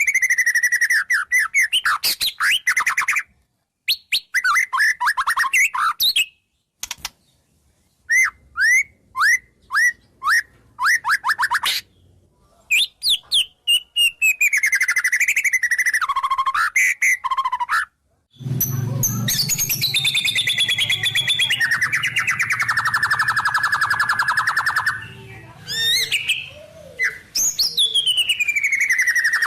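White-rumped shama (murai batu) singing a varied song of fast trills, sliding whistles and repeated notes, broken by short silences. From about 18 seconds a low hum runs under the song for several seconds.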